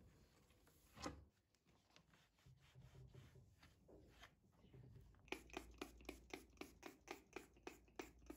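Faint hand-cleaning sounds: a soft knock about a second in, then from about five seconds in a quick, even run of short scrubbing strokes, about four or five a second.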